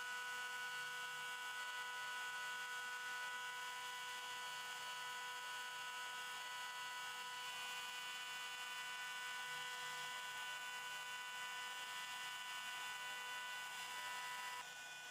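CNC machine running with a steady, even whine made of several held tones, dropping a little in level near the end.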